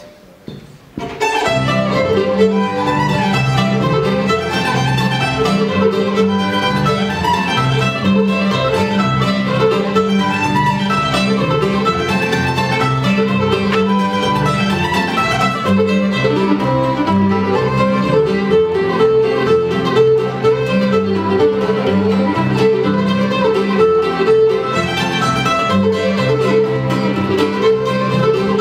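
Old-time string band playing a fiddle tune: fiddle lead over mandolin, guitar and bass, kicking in about a second in.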